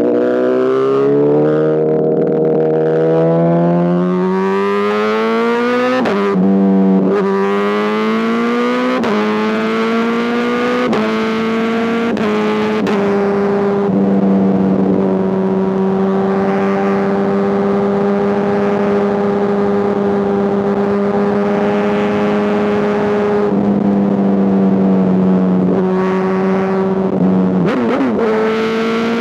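Honda CBR1000RR inline-four through an SC Project exhaust, accelerating through the gears: the pitch climbs and drops back at each upshift, then holds a steady note at cruising speed for about ten seconds, and eases off and picks up again near the end.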